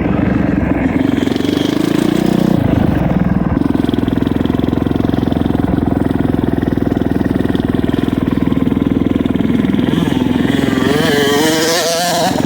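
Honda CRF450R single-cylinder four-stroke motocross bike engine running under throttle on the track, its note dipping and changing about two to three seconds in, then wavering and rising near the end.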